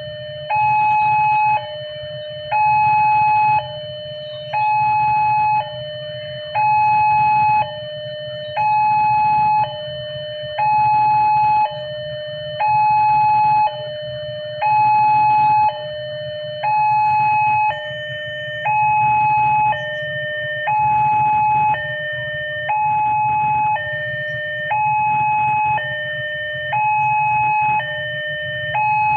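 Railway level-crossing warning alarm sounding a two-tone signal, a higher tone and a lower tone alternating about once a second, warning that a train is coming through the crossing. A steady low hum runs underneath.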